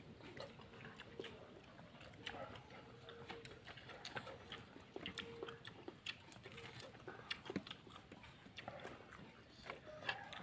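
Faint chewing and mouth noises from people eating, with scattered small clicks and smacks.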